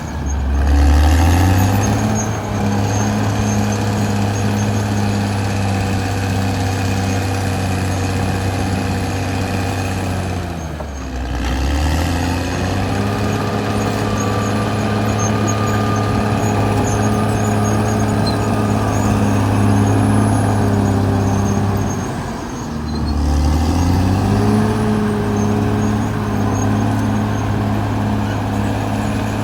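Caterpillar D6R XL bulldozer's diesel engine working at a steady speed. Three times, about ten seconds apart, its revs dip briefly and climb back up.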